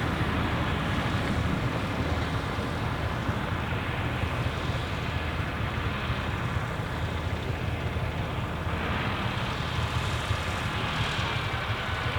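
Deutz F3L514 tractor's air-cooled three-cylinder diesel running steadily, together with the even machinery noise of a Claas Super pull-type combine threshing wheat.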